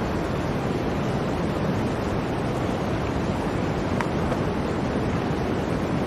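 Blizzard wind blowing: a steady, dense rushing noise, deepest at the low end, with one faint tick about four seconds in.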